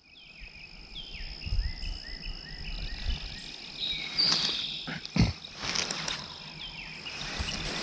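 Outdoor woodland ambience: a steady high insect drone, with a songbird singing a run of quick, evenly repeated slurred notes. A few knocks and rustles follow from about four seconds in.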